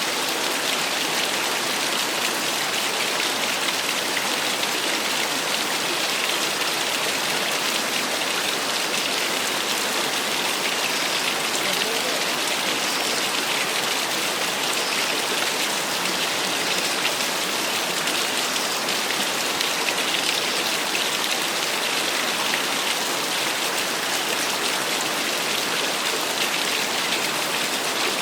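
Small waterfall splashing: a steady, even rush of falling water with no breaks.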